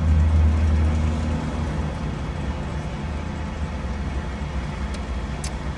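Low motor-vehicle rumble heard from inside a car, louder for the first second and a half and then steady and weaker. Two faint clicks come near the end.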